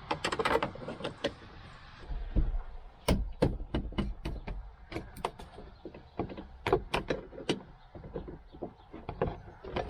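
Irregular clicks and knocks of a hand tool working at a seat-belt mounting bolt, with a few low thuds about two to three seconds in.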